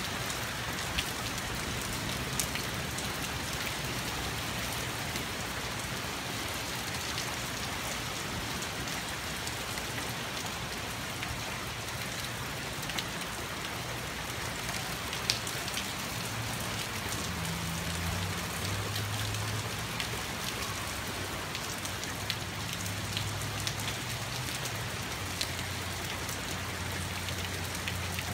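Heavy rain falling steadily, with scattered sharper drop ticks. A low hum comes in about halfway through and stays under the rain.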